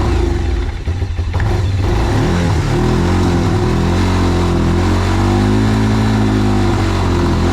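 Quad bike engine running roughly and unevenly for about two seconds, then revving up and back down in one smooth rise and fall. It breaks down under revs because the air filter is soaked with oil and not enough air is getting in.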